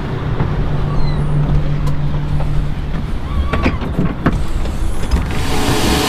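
Steady low engine rumble with a few sharp knocks around the middle, which fit the engine hatch being opened. About five seconds in, a loud rushing noise comes in on top.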